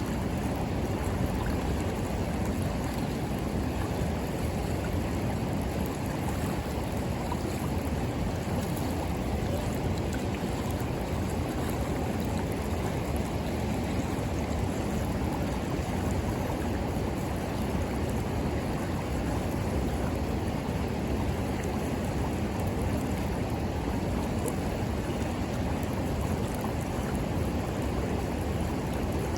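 River water flowing: a steady, even rush, with a few faint crackles from a wood bonfire.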